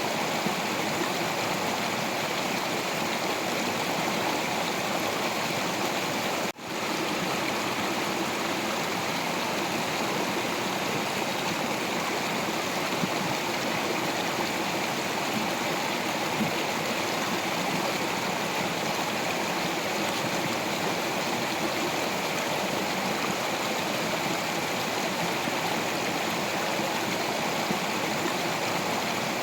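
Water stream rushing over rocks, a steady, unbroken flow, with a momentary dropout about six and a half seconds in.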